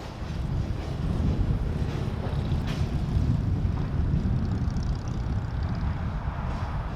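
Steady low vehicle rumble with wind buffeting the microphone, getting a little louder about a second in.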